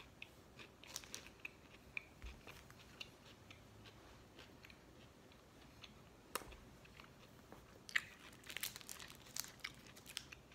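Faint mouth sounds of someone chewing a chocolate truffle bonbon with a crunchy, Kit Kat-like wafer centre: scattered crisp crunches that come quicker about eight seconds in.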